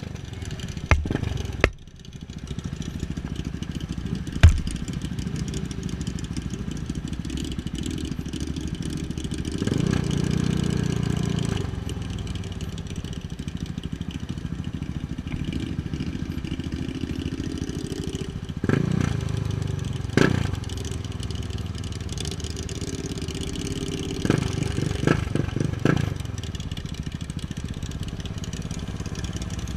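KTM 690 Duke's single-cylinder engine running under way, steady most of the time, with a louder surge of throttle about ten seconds in and a few short sharp blips later on.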